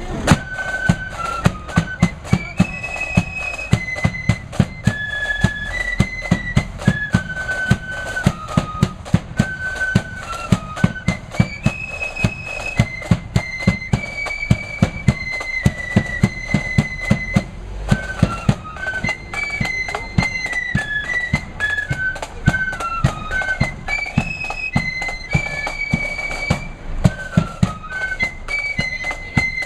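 Marching flute band playing a tune together on flutes, with drums keeping a steady march beat of about two strikes a second.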